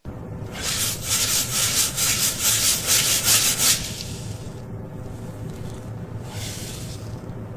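Rapid, repeated scratching or rubbing strokes, several a second, loud for about three seconds. A shorter burst of the same comes near the end.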